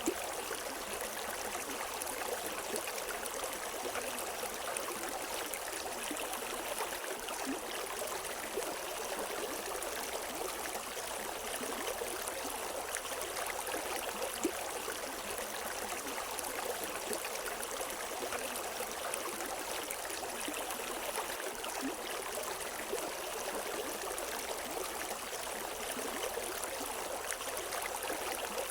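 A river's water running steadily over rocks, a continuous rushing with small splashes and no birdsong.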